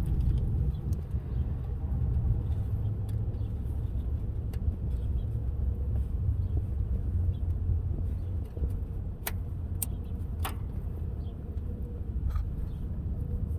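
A steady low rumble, with a few sharp clicks near the end, as of hand tools touching the truck's metal.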